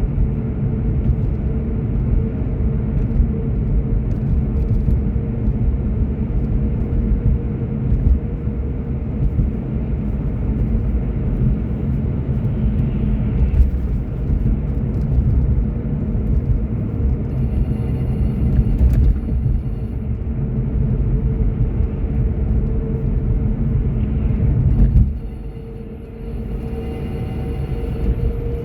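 Car driving with steady low road and tyre rumble and a constant hum underneath. About 25 seconds in, the rumble drops off sharply, then picks up again more quietly.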